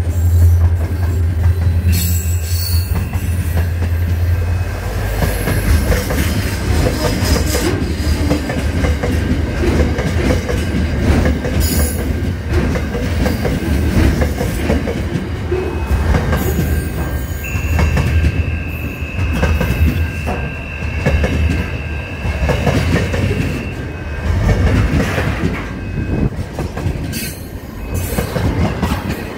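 Freight train passing close by: a diesel locomotive's low engine drone fades after the first few seconds. Then container and tank wagons roll past with a steady rumble and clatter of wheels on the rails. About halfway through, a high steady wheel squeal holds for several seconds.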